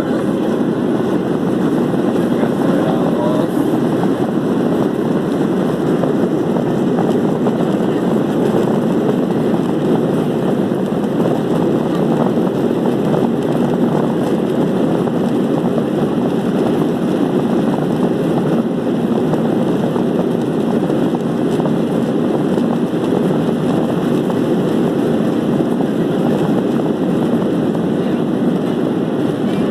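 Airliner engine noise heard inside the passenger cabin during takeoff: a loud, steady, even rumble with no break.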